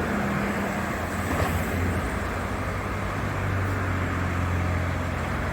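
Recycling truck's engine and hydraulics running steadily as the packer compresses cardboard in the body before more is loaded; the low hum grows louder about two seconds in.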